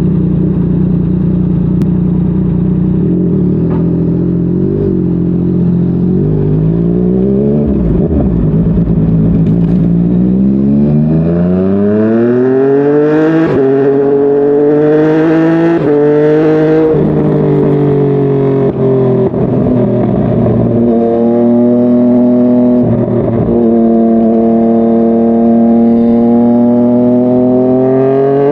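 Yamaha MT-09's inline-three engine and exhaust under way. It runs low and steady at first, then pulls up through the revs several times, the pitch dropping back at each gear change, settles into a steady cruise and revs up again near the end.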